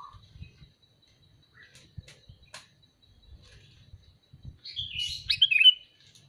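Sooty-headed bulbul (kutilang) calling: a quick burst of chirpy notes about two-thirds of the way in, the loudest sound, with a couple of sharp clicks a few seconds earlier.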